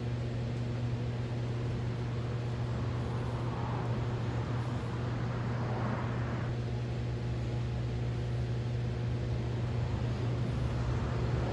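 Steady low machine hum with strong, unchanging tones, like an electric motor running, with brief rustling of handling noise about a third and halfway in.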